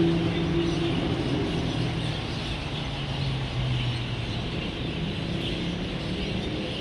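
A passing vehicle's engine hum, dropping in pitch and fading over the first few seconds, over the steady dense chatter of a large flock of birds gathering to roost and a background of road traffic.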